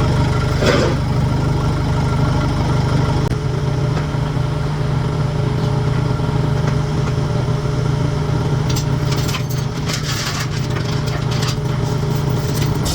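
An engine running steadily at idle with a low, even hum, with scattered clicks and crackles in the last few seconds.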